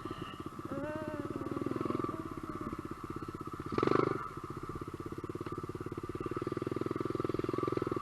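SSR125 pit bike's small single-cylinder four-stroke engine running at low speed on a trail, its even firing pulses steady throughout. There is a brief louder burst about four seconds in.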